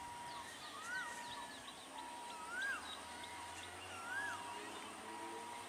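Birds calling: one bird gives a whistled call that rises and falls, three times about a second and a half apart, with quick high chirps in between.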